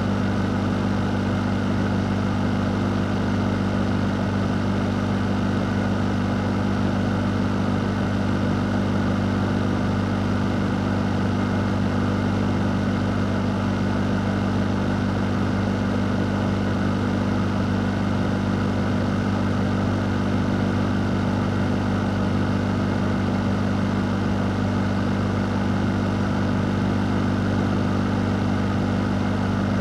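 Fan running steadily: an even whoosh of moving air over a low, constant hum, with no change in speed or pitch.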